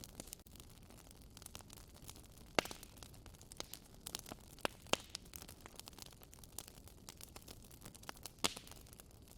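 Wood fire burning in a fireplace, crackling with many small snaps over a soft hiss. A few louder pops stand out, about two and a half seconds in, near the middle, and near the end.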